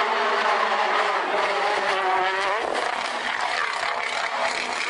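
Rally car engine running at high revs, its pitch climbing and then dropping suddenly about two and a half seconds in.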